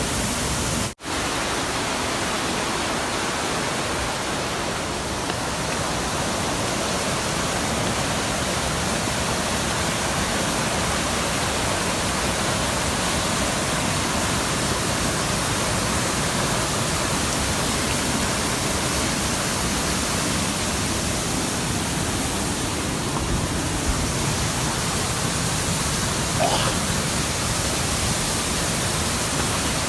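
Waterfall pouring, a loud steady rush of water across the whole range, broken once by a brief dropout about a second in.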